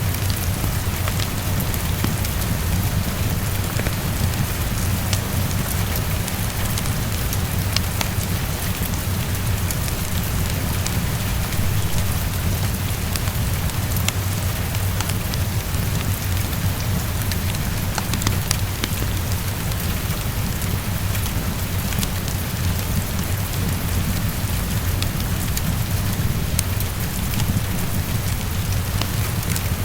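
Heavy rain falling steadily against a window, with a constant low rumble underneath and scattered sharp clicks throughout.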